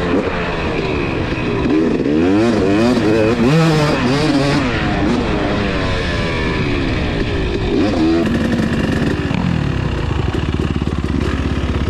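Two-stroke dirt bike engine revving hard up and down again and again, as when it is ridden through the gears. After about eight seconds it drops to a lower, steadier running note.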